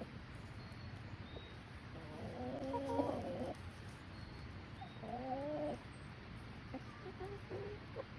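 Chickens vocalizing: two drawn-out, wavering calls, one about two seconds in and one about five seconds in, then a few short, softer clucks near the end.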